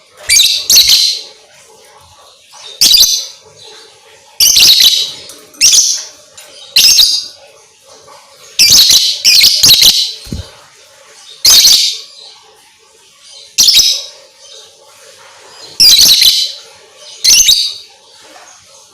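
Lovebird calling in loud, shrill chirping bursts, about ten in all, each under a second, at irregular gaps of one to two seconds.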